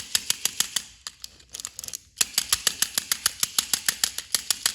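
Battery-powered toy train engine being switched on for a test, giving rapid, even clicking at about nine clicks a second in two runs with a brief break after the first second. The engine fails the test and does not run properly.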